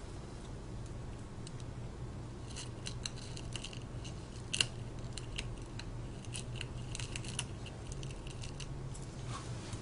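Small clicks and scratches of a pry tool working broken screen glass off a Samsung Vibrant phone's frame, scattered through the middle with one sharper click about four and a half seconds in, over a steady low hum.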